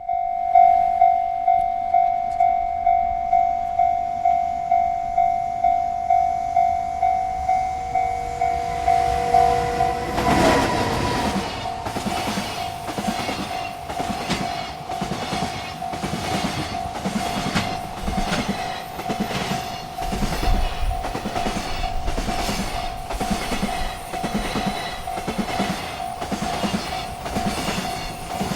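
Railroad crossing bell ringing steadily at about two strokes a second. About ten seconds in, a freight train reaches the crossing and its wagons roll past with a regular clickety-clack of wheels over the rail joints, the bell still ringing underneath.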